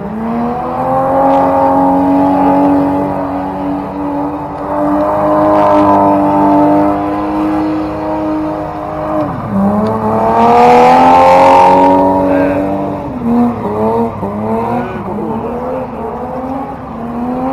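Car engine held at high revs for several seconds, then dropping and revving up again, with repeated rises and falls in pitch toward the end.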